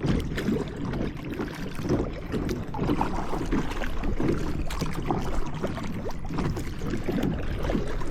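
Kayak paddling on a lake: water splashing and dripping from the paddle strokes, with irregular small splashes and gurgles against the hull.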